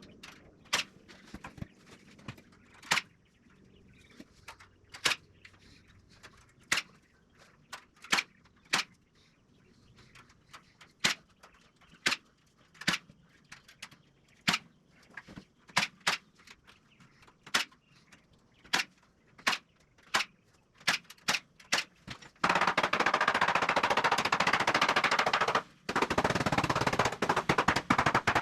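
A fastening gun firing single sharp shots, one every second or so, as the wooden frame is fastened together. Near the end a loud steady rushing noise runs for about three seconds, stops briefly and runs again for about two seconds.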